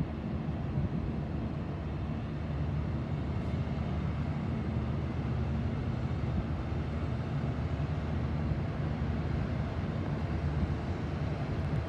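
Steady low drone of ship engines running, with a faint machinery hum.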